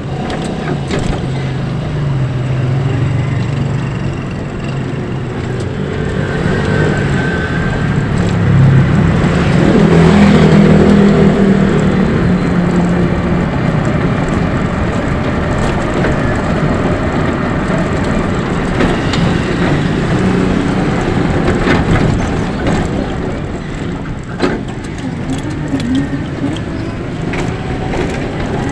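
Vehicle and road noise on the move: a steady low rumble, swelling louder for a few seconds about ten seconds in, with a couple of short knocks near the end.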